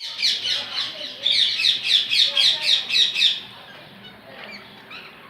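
Parrots giving a rapid series of harsh squawking calls, about four a second, which stop a little past halfway through.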